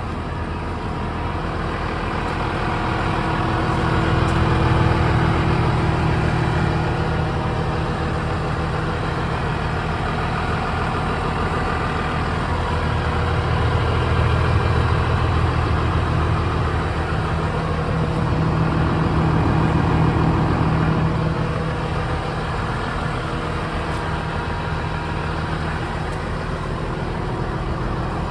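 Massey Ferguson 7485 tractor's Sisu six-cylinder turbo-intercooled diesel running steadily at a constant speed. It grows louder and softer a few times without any change in pitch. The seller describes it as running as it should.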